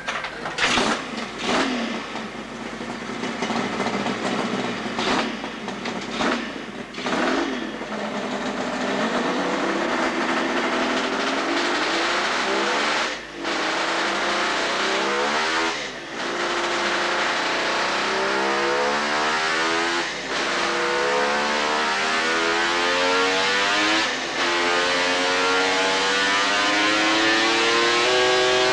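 Kawasaki two-stroke triple motorcycle engine blipped sharply a few times. It is then run up hard, its note climbing steadily with a short dip at each of four gear changes.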